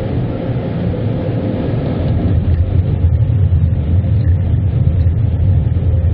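Low, steady rumble of automatic car wash equipment heard from inside the car, growing louder about two seconds in.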